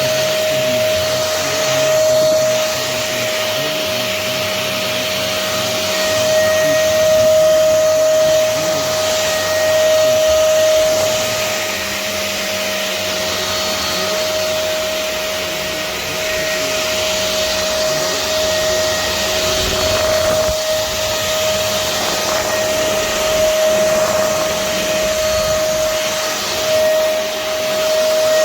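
Tower VL35 cordless stick vacuum cleaner running steadily: a constant motor whine over the rush of suction airflow.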